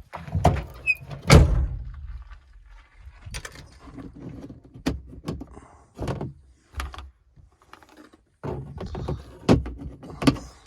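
A string of knocks and thuds from a vehicle's doors and body being handled, the loudest about a second and a half in, with rattling and handling noise between them.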